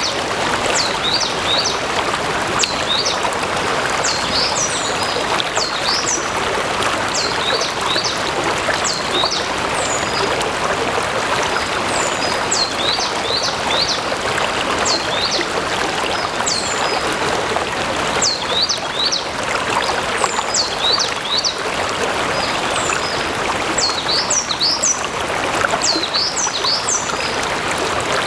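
A stream flowing steadily, its water running and trickling. Over it, a bird gives short high chirps again and again.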